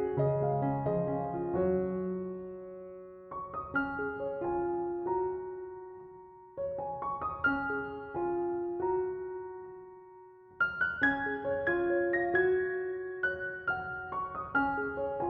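Slow, gentle solo piano music: soft arpeggiated phrases of ringing notes that fade away, each phrase starting again after a short pause.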